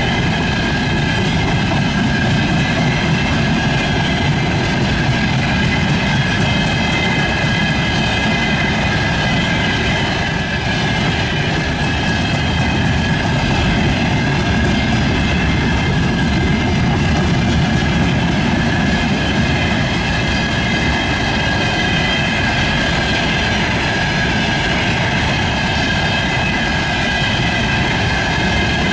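Freight train wagons rolling past at steady speed: a continuous rumble of wheels on rail with a steady high-pitched wheel ringing above it.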